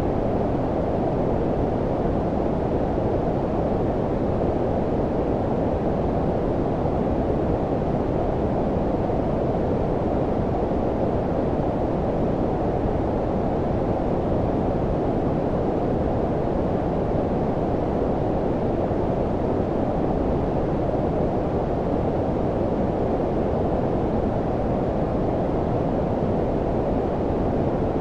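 Steady synthetic low-frequency noise, white noise filtered down to a deep rumbling hiss like brown noise, with most of its energy below about 1 kHz and nothing above it but a faint hiss. It holds an even level throughout, with no changes or other sounds.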